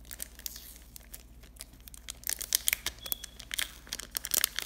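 Packaging of a sheet of self-adhesive nail decals rustling and crackling as it is handled, the crackles growing denser and louder about two seconds in.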